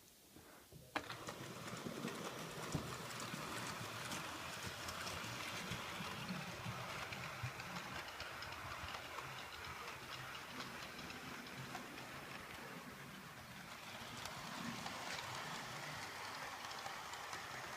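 Train running on the rails with a steady clatter of wheels, cutting in abruptly about a second in.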